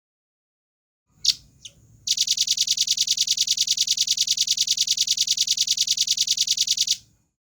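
Velvet-fronted nuthatch giving two short, high calls, then a fast, even trill of about ten notes a second that runs for about five seconds and stops suddenly.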